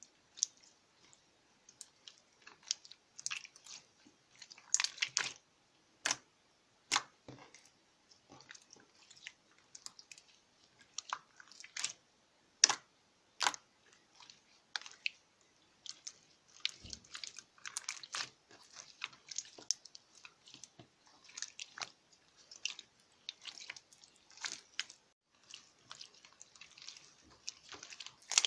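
Eraser slime (slime mixed with eraser crumbs) being squeezed, pressed and poked by hand, giving irregular crunchy clicks and crackles, a few a second.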